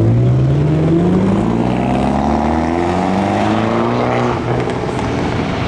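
Loud car engine accelerating hard, its pitch climbing steadily, dropping back at a gear change about halfway through, then climbing again.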